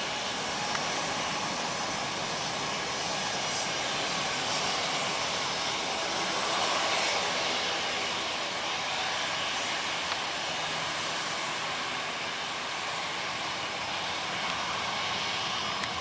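Airliner engines heard close by as a steady, loud rush of noise, swelling slightly about halfway through.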